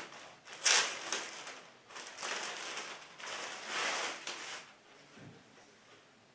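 Packaging rustling and crinkling in a series of handling bursts as a cap is taken out of it, dying away after about five seconds.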